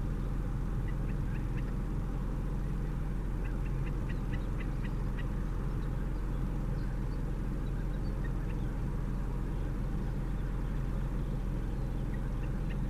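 Wetland birds calling in short rapid runs, about four calls a second, twice early on and a few scattered calls later, over a steady low rumble.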